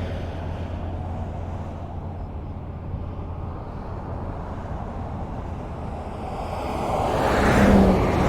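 Highway traffic: a steady low rumble of road noise, with one vehicle approaching and passing close near the end, its tyre and engine noise swelling to a peak.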